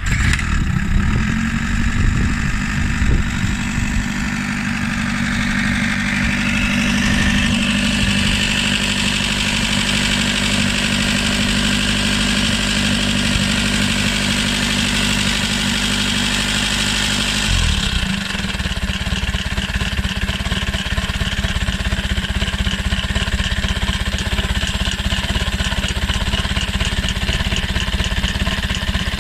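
Nimbus four-cylinder motorcycle engine running steadily at idle, its sound changing abruptly a little over halfway through and then running on steadily.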